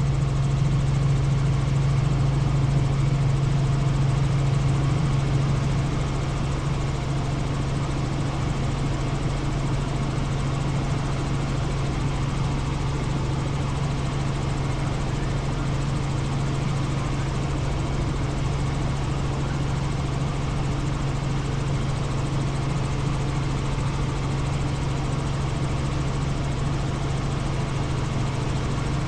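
Helicopter in flight, its rotor and engine making a steady low drone that eases slightly about six seconds in.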